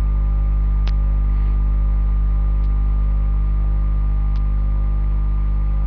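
Steady electrical mains hum with a stack of evenly spaced overtones, loud and unchanging, with three faint sharp ticks spaced about a second and three quarters apart.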